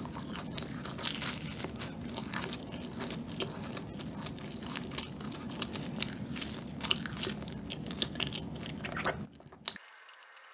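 Close-miked chewing of a soft honey-filled bread, with many small mouth clicks throughout. The chewing stops shortly before the end.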